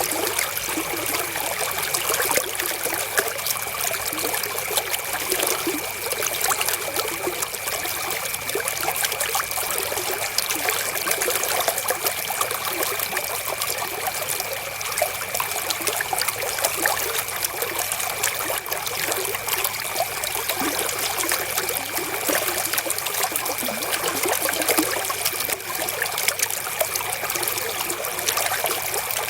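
River water flowing and trickling over stones, an even, unbroken rush of water.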